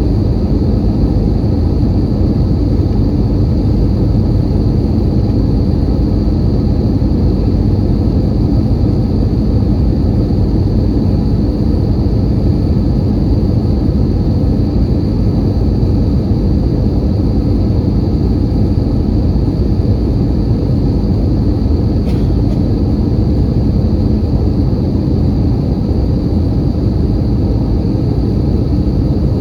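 Airbus A320 cabin noise in flight: a steady, unchanging low rumble of engines and airflow, with a faint steady high tone over it. A single light click comes about three-quarters of the way through.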